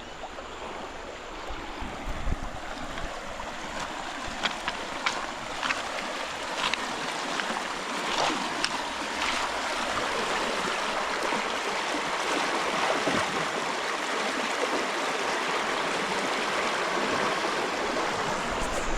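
River water rushing steadily, slowly growing louder, with a few faint ticks in the first half.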